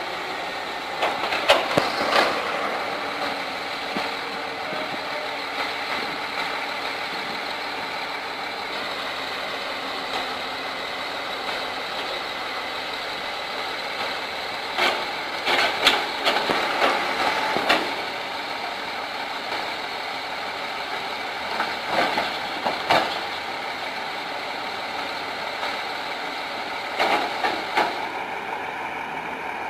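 Diesel engine of heavy earthmoving equipment running steadily, with short clusters of sharp knocks about a second in, around the middle, and near the end.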